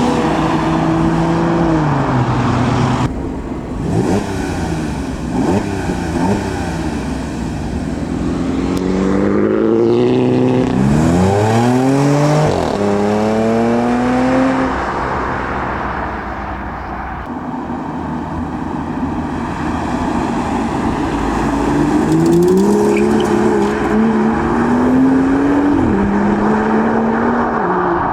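Tuner cars driving off one after another. Their engines rev up hard and climb in pitch through the gears as each car accelerates away. One engine note falls off near the start, a steep rise comes about halfway through, and another stepped climb comes near the end.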